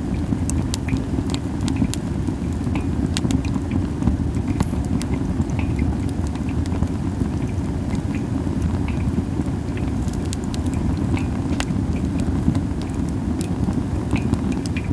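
Campfire of masaki (Japanese spindle) wood crackling, with frequent sharp pops scattered over a steady low rumble.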